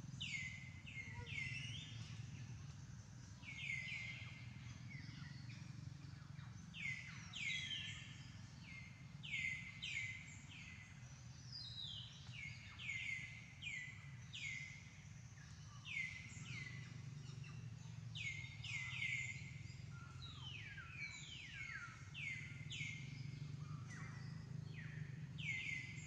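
A bird calling over and over: short, high chirps that each sweep sharply down in pitch, often in quick runs of two to four, over a faint steady low hum of outdoor background noise.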